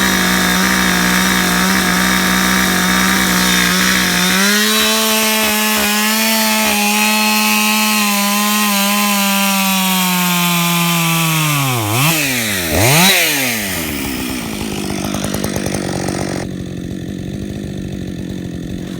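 Two-stroke chainsaw running at full throttle through a cut in a California black walnut stump, its pitch rising slightly about four seconds in. About twelve seconds in the throttle is let off and blipped twice, and the saw drops to idle to cool down after the big cut.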